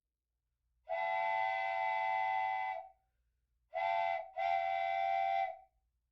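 Multi-tone train whistle sounding three blasts: one long, then a short one followed closely by another long one, each a steady chord that cuts off cleanly.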